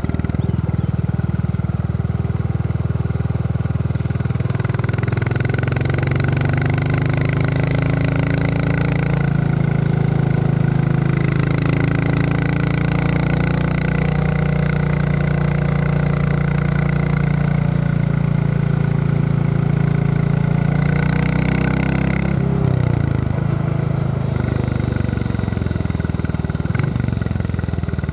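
Royal Enfield Classic 350's single-cylinder engine thumping along under way. Its pitch rises about five seconds in as the bike picks up speed, holds steady, then drops about twenty-two seconds in as it slows.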